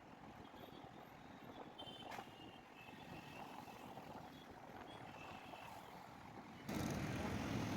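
Road traffic noise, a steady rumble with faint short high tones, that gets suddenly louder near the end.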